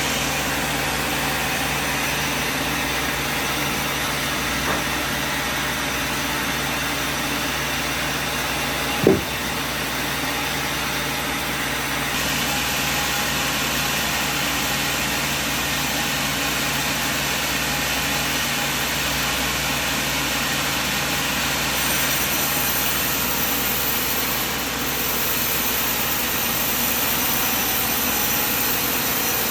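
Sawmill machine running steadily, with one sharp knock about nine seconds in.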